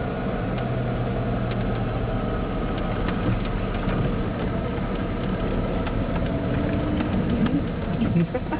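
Car engine and road noise, steady, with a few faint clicks.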